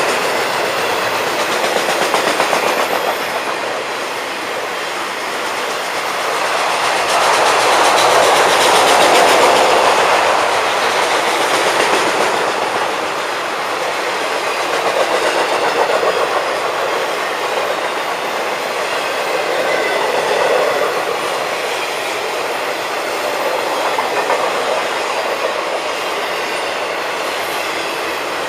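Freight cars of a long Florida East Coast freight train rolling past, a continuous clatter of steel wheels on the rails that swells and eases as the cars go by.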